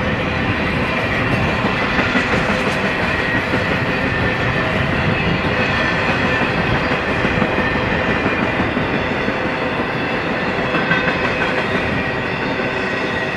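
Freight cars of an intermodal train rolling past, steel wheels running on the rails with a loud, steady rolling noise.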